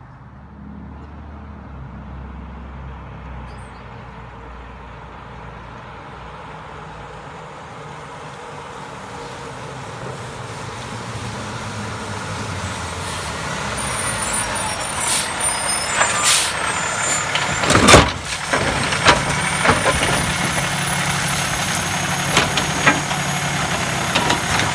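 Garbage truck's engine coming closer and growing steadily louder. In the second half come a run of sharp metallic knocks and bangs, the loudest about three-quarters of the way through, with a thin high whine over them.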